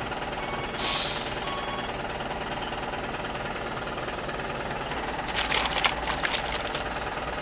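Remote-control toy truck running, with a pulsing reversing beeper that stops about two seconds in, a short loud hiss about a second in, and a quick run of clicks and rattles near the end.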